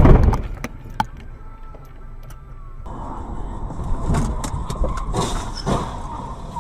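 A heavy crash impact right at the start: a car collision. It is followed by a sharp knock about a second later. About three seconds in, steady car running noise takes over, with a thin steady whine and a few knocks.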